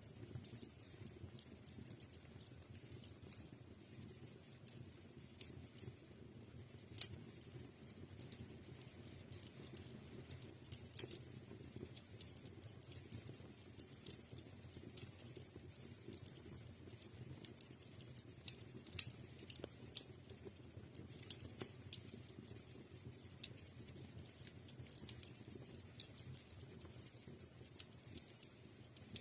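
Wood fire crackling in a fireplace: irregular sharp pops and snaps, a few louder than the rest, over a faint steady low rush of the burning fire.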